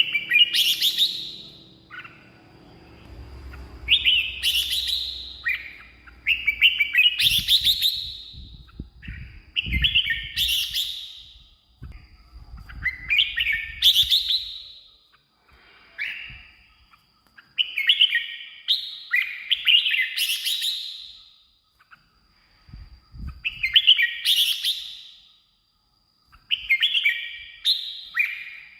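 Red-whiskered bulbul singing: short, loud, warbling phrases, each about a second long, repeated every two seconds or so with brief pauses between.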